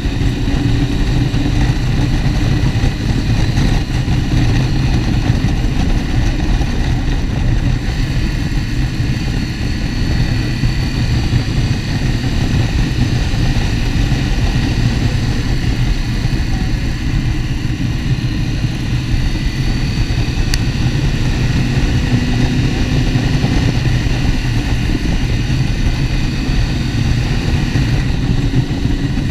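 Motorcycle engine running steadily at road speed under heavy, constant wind rumble, its pitch drifting gently up and down.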